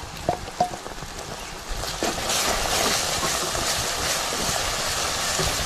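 Wet ground masala paste frying in hot oil in a pot. It turns into a loud, steady sizzling hiss from about two seconds in as it is stirred into the oil.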